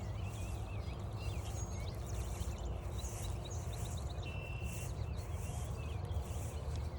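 Wild songbirds chirping and calling along a woodland trail, one giving a brief held note about four seconds in, over regular footsteps at a walking pace and a low rumble.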